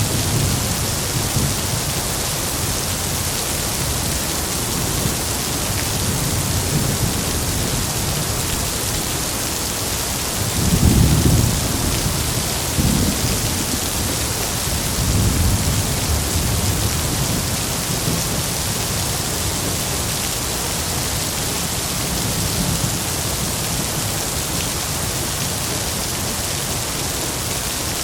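Heavy rain falling steadily, with rolls of thunder rumbling low beneath it; the loudest roll comes about eleven seconds in, followed by smaller rumbles and another building at the end.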